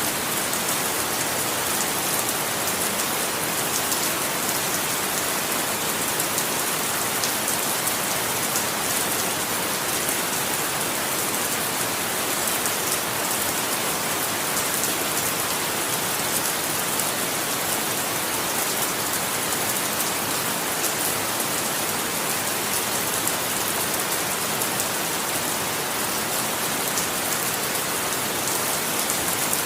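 Steady rain falling on a surface, an even hiss with dense fine drop patter throughout.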